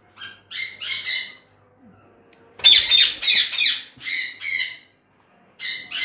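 Pet parrots squawking: a series of short, harsh calls in several groups, loudest about halfway through.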